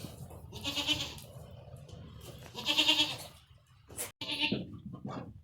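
Goat bleating: two calls of about half a second each, then a sharp click and a shorter call near the end.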